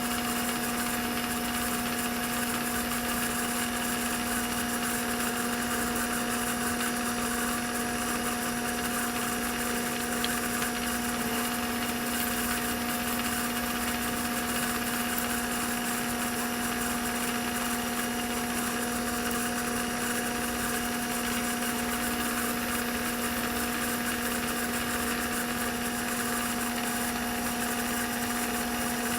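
Milling machine running at 1800 rpm with a 1/4-inch two-flute high-speed-steel end mill, cutting a slot in aluminium hex stock: a steady, even hum.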